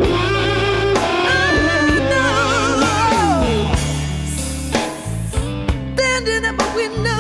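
Electric blues band playing: long held, wavering lead notes with a sliding drop about three seconds in, over steady bass and drums.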